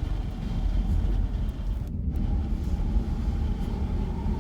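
Steady low rumble inside the cabin of a Lexus GX 470 driving through a wind-driven ground blizzard: wind buffeting and road noise, with a faint steady whine underneath.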